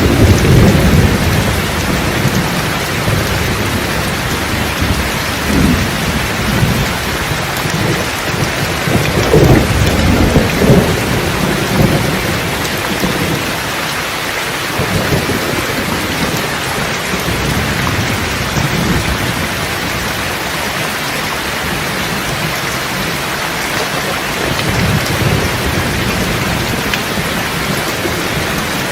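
Steady heavy rain with thunder rumbling, the rumbles strongest near the start and again about ten seconds in, then fading to a low background grumble under the rain.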